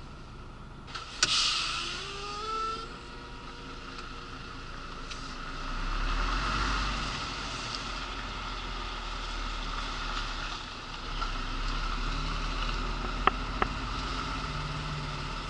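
Mercedes articulated lorry's diesel engine running, heard from inside the cab as the truck moves slowly. A sharp click and a short hiss come about a second in, then the engine pitch rises briefly, and a heavier low rumble comes in from about the middle on.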